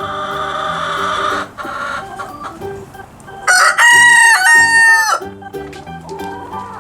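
Rooster crowing: one loud cock-a-doodle-doo about three and a half seconds in, lasting under two seconds. A hoarse, noisy sound fills the first second and a half. Background music plays under it.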